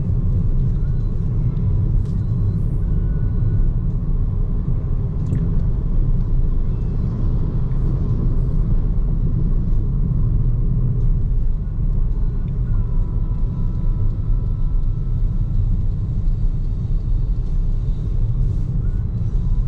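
Steady low rumble of road and tyre noise from a BYD Seagull electric car driving along, with no engine note, and a few faint thin tones and light ticks above it.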